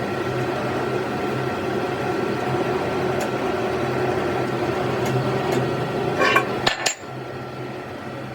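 Steady workshop machine noise with a low hum, a few light clicks, and a short clatter of metal parts knocking together, ringing briefly, about six to seven seconds in.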